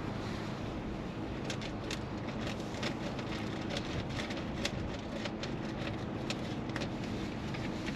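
Scattered light clicks and taps from hand work on a car's interior, over a steady low hum.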